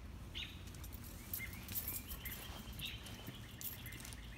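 Birds chirping faintly, short high calls every second or so, with a few faint light clicks.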